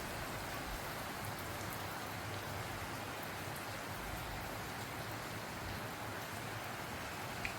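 Steady heavy rain falling, driven by a tropical cyclone.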